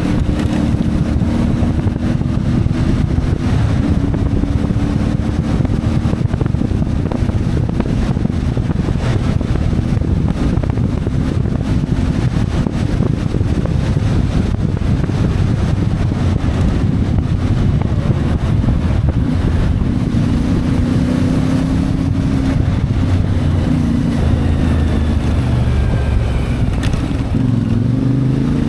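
CF Moto 450MT's parallel-twin engine running while the motorcycle is ridden, with wind noise on the microphone. The engine note holds fairly steady, then rises and falls in the last several seconds as the throttle changes.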